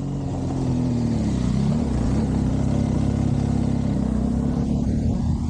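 BMW R1200GS flat-twin boxer engine running under throttle, its pitch dipping and climbing back about a second and a half in.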